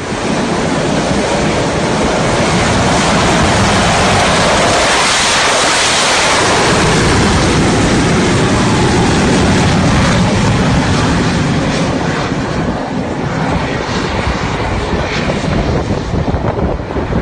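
Jet aircraft engine noise: a loud, steady rushing that comes in suddenly, is strongest about five seconds in, and eases a little toward the end.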